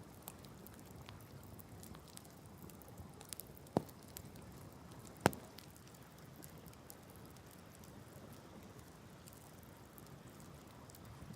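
Wood bonfire crackling, with many small snaps and two louder pops a second and a half apart near the middle.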